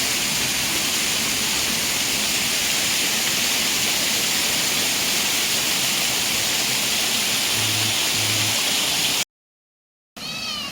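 Steady rush of falling or flowing water, a waterfall or fast stream. It cuts off abruptly about nine seconds in, and after a moment of silence a bird starts a few quick falling chirps near the end.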